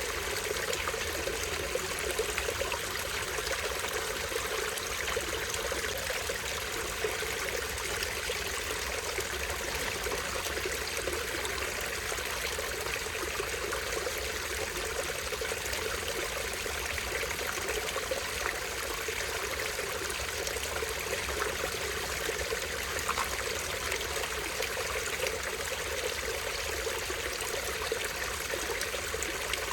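Small stream spilling over a tiny waterfall: water running and splashing in a steady, even rush.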